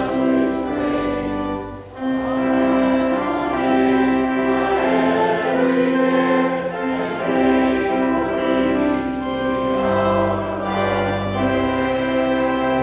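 Choir singing long held chords, with a short break about two seconds in, likely with organ underneath.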